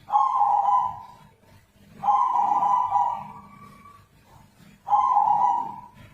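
Zebra dove (perkutut) giving three drawn-out, steady-pitched coos, the middle one about twice as long as the others.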